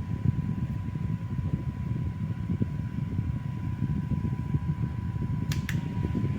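Electric fan running, its airflow buffeting the microphone as a steady fluttering low rumble, with a faint steady whine. Two sharp clicks close together near the end.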